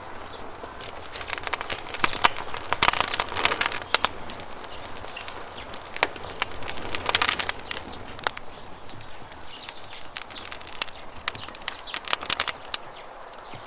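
Wood campfire crackling and popping in irregular clusters, densest about a quarter of the way in, around the middle and near the end, over a steady hiss of flowing river water.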